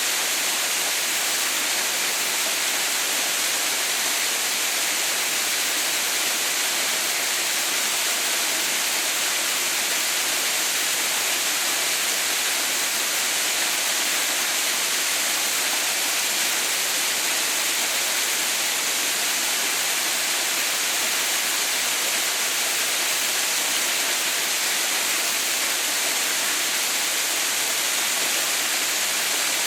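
Waterfall: a steady, even rush of falling water, mostly hiss with little low rumble, unchanging throughout.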